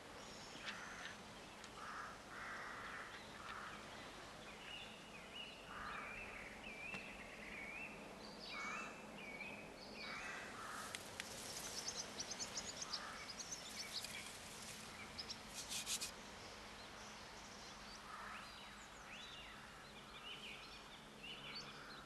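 Faint outdoor birdsong: crows cawing now and then while smaller birds sing, with quick high trills in the middle, over a low steady background hiss.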